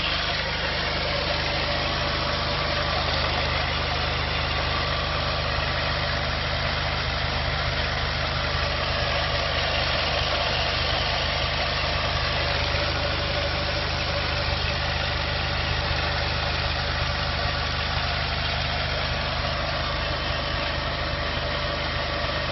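VW 1.9T engine idling steadily, running evenly without a misfire.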